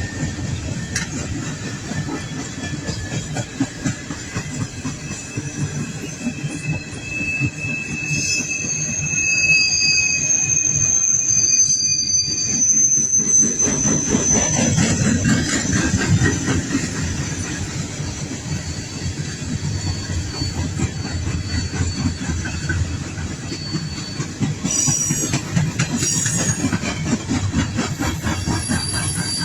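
Long coal train rolling past, its cars' wheels giving a steady rumble with a fast clatter over the rail joints. High-pitched wheel squeals ring out for several seconds about a third of the way in and again briefly near the end.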